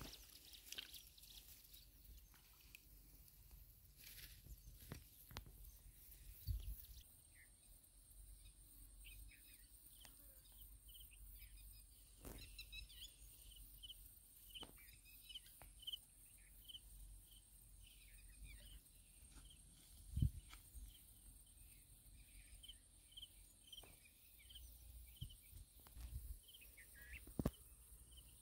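Faint outdoor quiet: a bird chirps over and over in short high notes, over a thin steady high whine and a low rumble. A few light knocks and rustles come and go.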